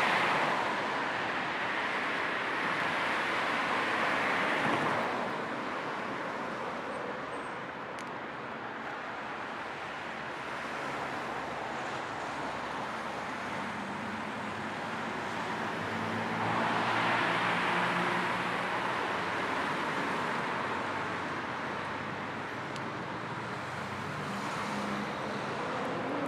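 Steady road noise of a car driving, an even hiss of tyres and air over a low hum, mixed with soft white noise. It swells louder for the first few seconds and again a little past the middle.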